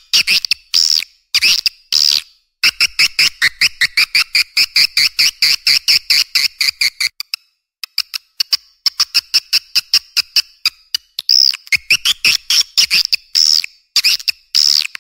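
Recorded edible-nest swiftlet calls: fast trains of sharp, high chirps, about eight to ten a second, mixed with longer rising-and-falling twitters, breaking off briefly about halfway through. This is a swiftlet lure sound, played to draw swiftlets into a nesting house.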